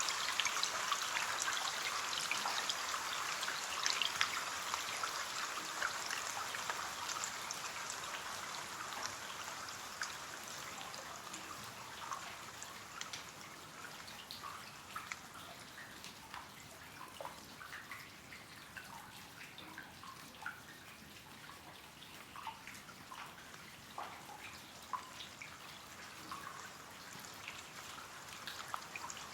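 Rain falling on a window pane: a steady patter that gradually eases, so that separate drops and drips tapping on the glass stand out more in the second half.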